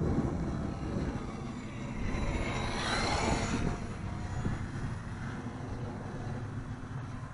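Small electric motor and propeller of a radio-control Super Cub plane whining as it flies past, swelling and bending in pitch about three seconds in, then fading. Wind rumbles on the microphone throughout.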